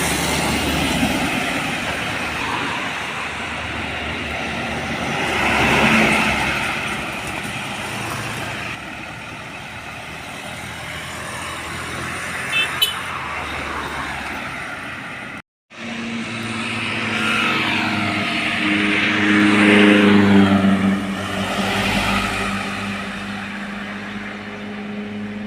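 Road traffic with trucks and other vehicles driving past, engine and tyre noise swelling and fading as each goes by, with a pitched engine drone in the second half.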